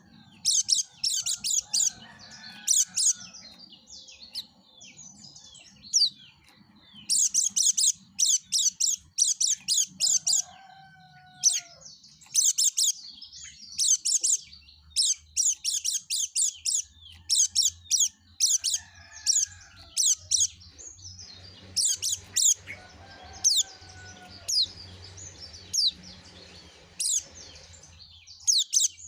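Yellow-breasted white-eye (pleci) singing in fast, high twittering bursts of chirps, broken by short pauses.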